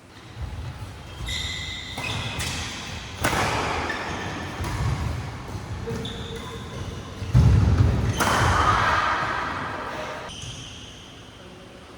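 Badminton doubles rally on an indoor court: players' feet thudding and shoes squeaking on the court floor, with sharp racket strikes on the shuttlecock, the loudest thud and strike about seven to eight seconds in. The hall's echo carries the sound.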